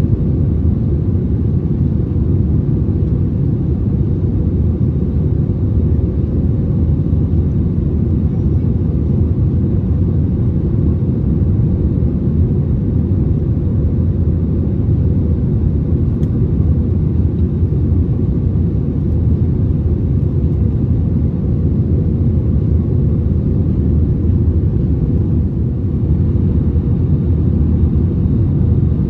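Steady low rumble of engine and airflow noise inside the cabin of an Airbus A320neo with its engines at high thrust during takeoff and climb.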